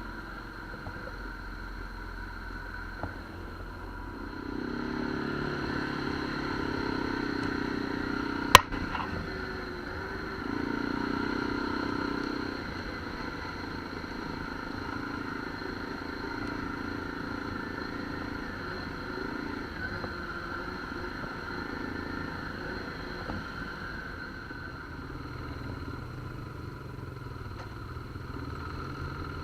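ATV engine running while riding, picking up and getting louder about four seconds in, then easing back a few seconds later, with one sharp click partway through.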